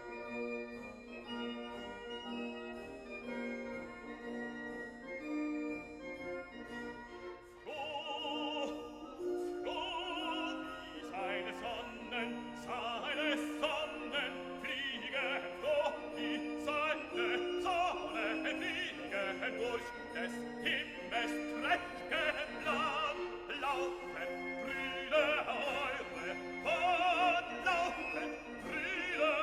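Classical music: an instrumental passage, then from about eight seconds in a trained operatic voice singing with strong vibrato over the accompaniment.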